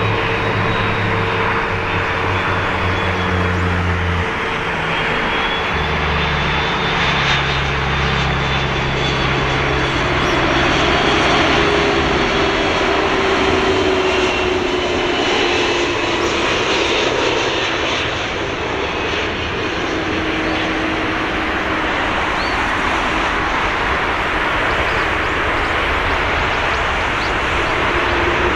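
Airbus A330-200 airliner's jet engines on landing approach: a steady, loud roar with a faint whine that slowly drops in pitch.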